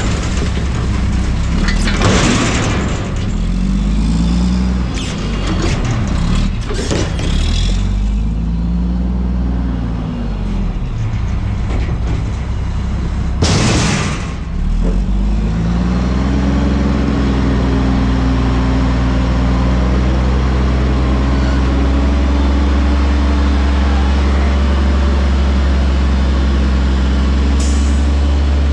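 Front-loader garbage truck's diesel engine revving up and down several times, then held at steady raised revs for the rest of the time, as when it drives the hydraulics. Two short loud bursts of hiss or crash cut in, about two seconds in and about halfway through.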